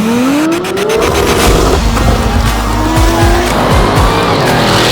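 High-performance car engine revving hard under acceleration, its pitch climbing, dropping back and climbing again as it pulls through the gears.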